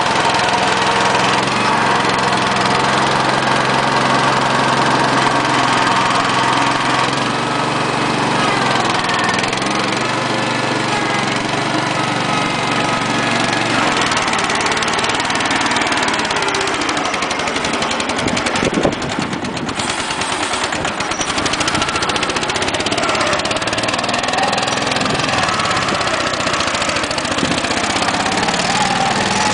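Kohler Pro 13 engine of a garden tractor running steadily, its note shifting a few times as it works, with a single thump about two-thirds of the way through.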